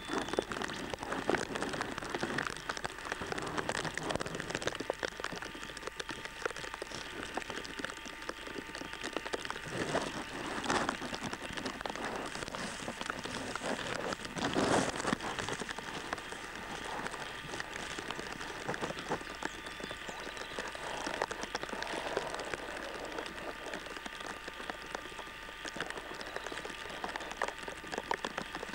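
Rain falling, a steady dense patter of drops, with one brief louder burst of noise about halfway through.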